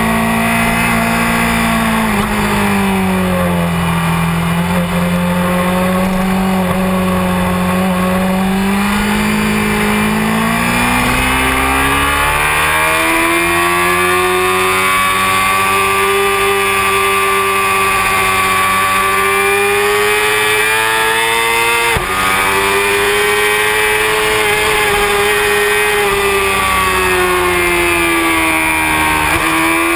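Honda CBR600F4i inline-four sport-bike engine at track speed, heard onboard. The revs drop and stay lower for several seconds, climb steadily from about ten seconds in, then hold high with small dips and rises. There is one short click about 22 seconds in.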